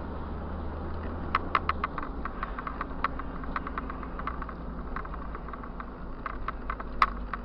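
Car engine running with a steady low hum that drops in pitch about two seconds in. Many short, irregular clicks and rattles sound over it, the sharpest one near the end.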